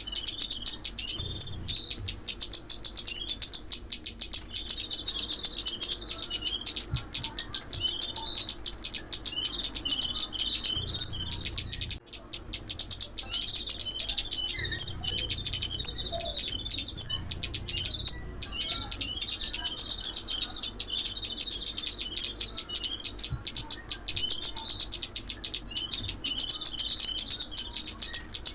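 Sunbirds (chim ốc mít) singing: rapid, high twittering and chirping trills, nearly continuous, with a couple of brief breaks. It is a recorded call meant as a lure for trapping.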